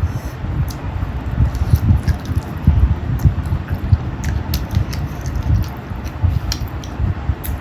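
Close-miked chewing and biting of spicy chicken fry and rice, with continual wet mouth smacks and small sharp clicks over dull, irregular chewing thuds.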